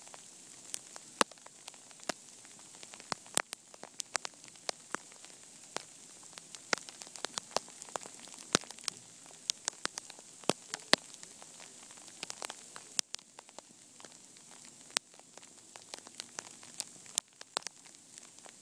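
Sleet ticking and pattering on hard surfaces during an ice storm: many sharp, irregular clicks of varying loudness, several a second, over a faint steady hiss.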